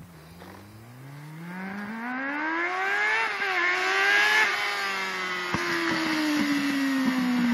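Kawasaki ZX-6R inline-four sportbike engine revving hard as it comes in. It climbs in pitch and grows louder, dips briefly about three seconds in, peaks about four and a half seconds in, then its pitch falls slowly while it stays loud.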